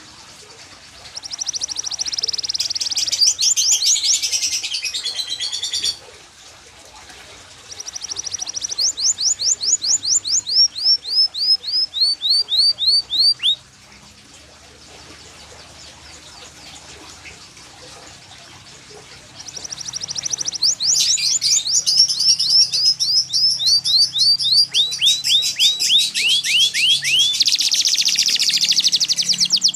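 Canary singing in long high phrases of rapid trills and rolls and runs of quick downward-sweeping notes. There is a short pause about six seconds in and a longer pause from about 14 to 19 seconds, then a long phrase that builds to the end.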